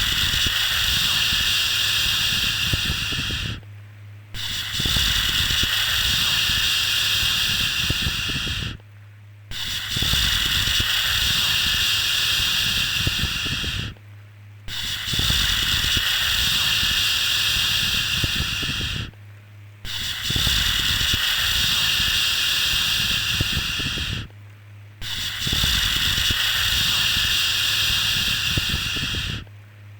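Looped shushing sound for soothing a baby: long steady 'shhh' hisses of about four and a half seconds each, separated by brief pauses, repeating about every five seconds. A low steady hum runs underneath.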